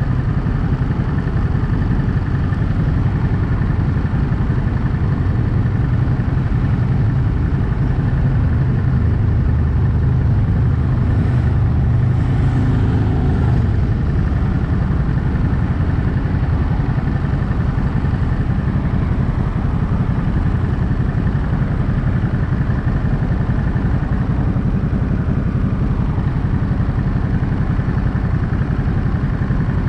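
Ducati Monster 937's 937 cc L-twin engine running steadily at highway speed, mixed with a continuous rush of air and road noise.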